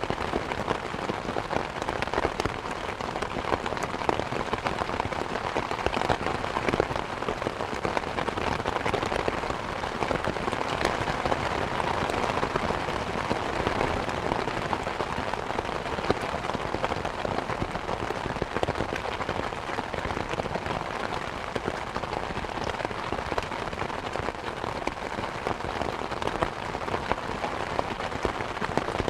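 Heavy thunderstorm rain falling steadily, a dense hiss full of individual drop hits.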